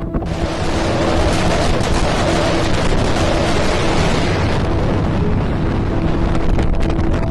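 Wind rushing over the microphone aboard a fast-moving boat, a steady roar that begins just after the start and eases a little about halfway through.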